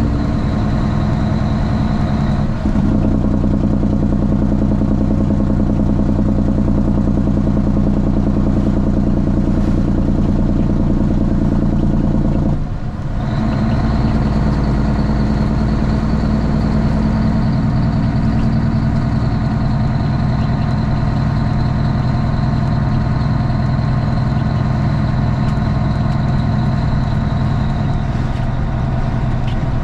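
Straight-piped Cummins ISX inline-six diesel in a Kenworth T800 truck running steadily, with a brief drop in the sound about halfway through before it picks up again.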